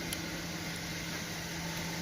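A steady mechanical hum with an even hiss over it, and one small click just after the start.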